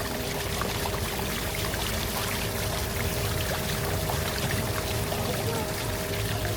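Water rushing and splashing along a river tour boat's hull, steady throughout, over a steady low motor hum.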